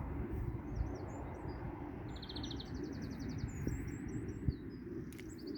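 Small songbirds twittering, with high chirps and a rapid trill about two seconds in, followed by a second trill, over a steady low rumble.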